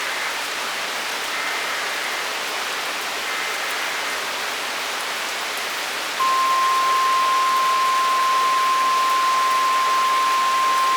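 Heavy rain pouring steadily. About six seconds in, a loud, steady single-pitch alert tone switches on abruptly and holds, the NOAA Weather Radio 1050 Hz warning alarm that comes before an emergency broadcast.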